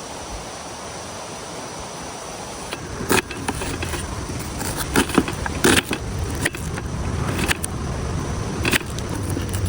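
Hard objects being handled, with a quiet start and then a run of sharp metallic clinks and knocks, about eight in all, over a low background rumble.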